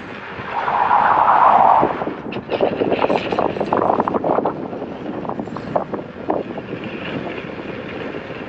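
Wind rushing over the microphone while riding a motorcycle, with a louder surge about a second in, followed by a run of short clicks and knocks.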